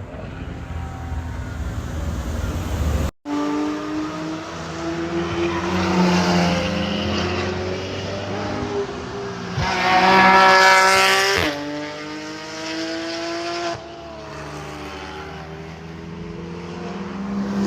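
Straight-piped Porsche 991 GT3 RS's naturally aspirated flat-six at full cry, its pitch climbing and falling as it accelerates and shifts. The loudest moment is a high-revving climb about ten seconds in that cuts off suddenly. There is a brief silent break about three seconds in.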